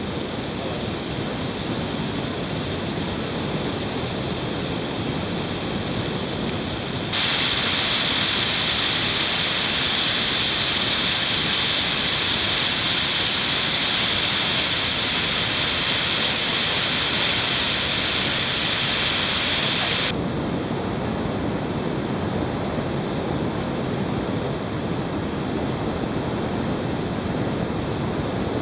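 Waterfalls pouring into pools: a steady rush of falling water. About seven seconds in it suddenly turns louder and hissier, and about twenty seconds in it drops back to the softer rush.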